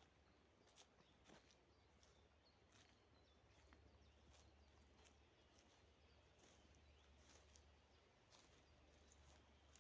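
Near silence: faint forest ambience with a low steady hum and scattered soft clicks.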